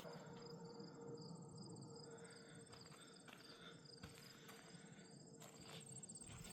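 Faint, high-pitched insect trilling, a steady fast pulsing, with a few soft ticks.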